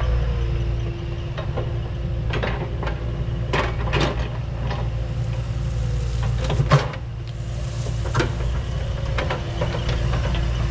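Excavator's diesel engine running steadily under load, with a series of sharp knocks and scrapes as the steel bucket strikes and drags across rock.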